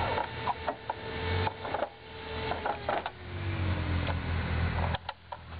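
Motorcycle engine idling with a low steady hum, under repeated sharp clicks and rubs from a handheld camera being moved about.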